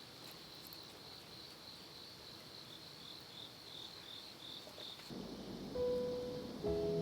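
Crickets chirping in an even pulsed rhythm, about three chirps a second, with a slightly lower-pitched chirp taking over about halfway through. Piano music comes in near the end.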